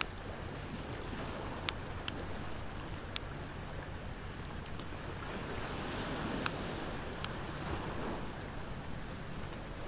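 Wood fire crackling, with a few sharp pops, over the steady wash of ocean waves that swells about six seconds in.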